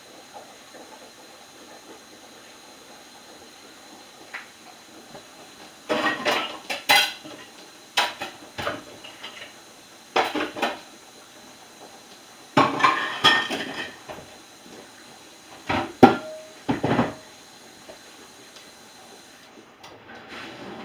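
Dishes and cutlery clattering as they are loaded into a dishwasher, in several short runs of clinks and knocks starting about six seconds in.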